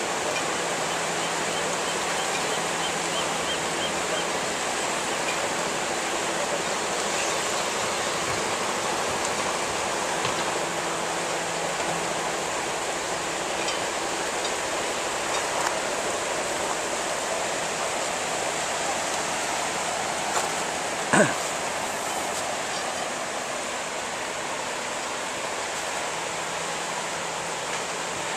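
Steady rush of tsunami surge water pouring through the harbor. About three quarters of the way through there is one brief, sharp knock or squeak.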